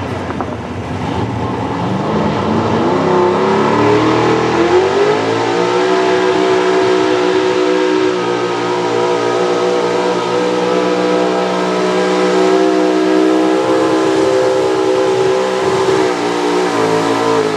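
Pro stock 4x4 pulling truck's engine at full throttle hauling the sled down the track: the pitch climbs over the first few seconds, then holds high and steady for about ten seconds before easing slightly near the end.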